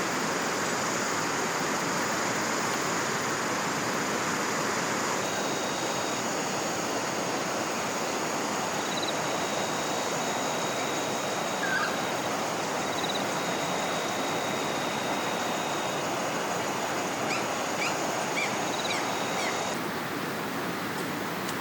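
Steady rush of flowing river water, with a steady high-pitched whine above it and a few short bird chirps near the end.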